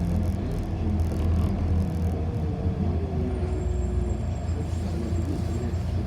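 City bus heard from inside the passenger cabin: steady low rumble of the drivetrain and road, with a motor whine that slides down in pitch as the bus slows on its approach to a stop. A faint high-pitched whine joins about three seconds in.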